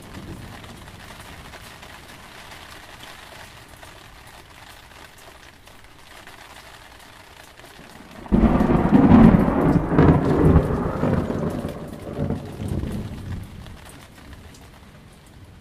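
Steady rain. About eight seconds in, a thunderclap breaks in suddenly and rumbles for about five seconds before fading back into the rain.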